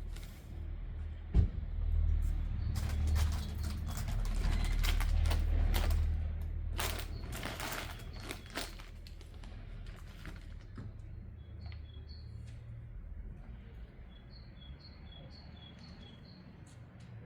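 A sewing machine runs for several seconds with a low motor hum and rapid stitching clatter, loudest in the middle, then slows and stops about ten seconds in. In the quieter second half, small birds chirp in short repeated calls.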